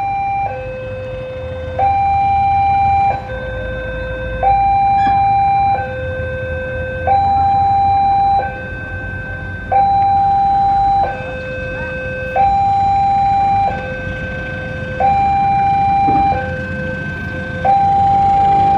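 Railway level-crossing warning alarm sounding an electronic two-tone signal, a high tone and a lower tone alternating, each held a little over a second, over a low rumble.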